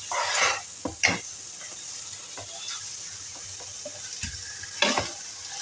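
Chicken breasts sizzling in sauce in a nonstick frying pan, stirred with a metal ladle: a steady frying hiss with a few scrapes of the ladle against the pan, about three, the last near the end.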